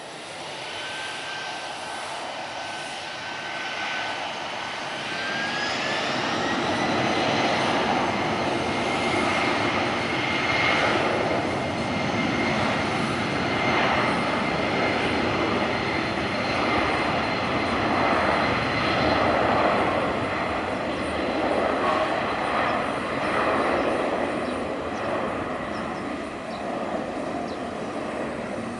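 Jet airliner's engines spooling up: a whine climbs in pitch about five to seven seconds in as the jet noise grows louder, then both hold steady at high power, as on a takeoff run.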